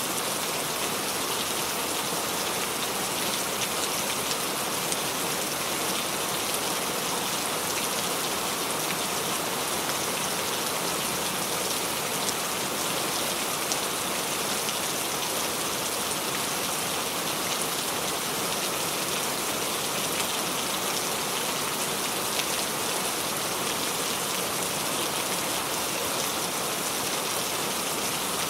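Steady rain falling on a surface, an even hiss of many drops with faint scattered droplet ticks.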